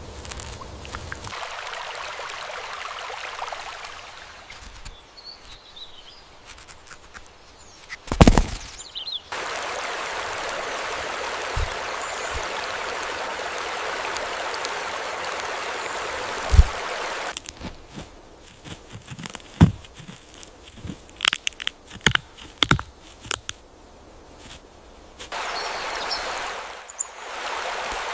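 Edited nature ambience: stretches of steady rushing water that switch on and off abruptly alternate with quieter stretches of rustling and scattered sharp clicks and cracks. A few faint high chirps are heard.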